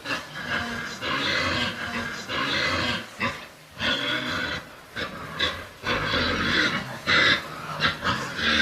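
Pigs grunting and squealing: a run of short, harsh calls with brief gaps between them.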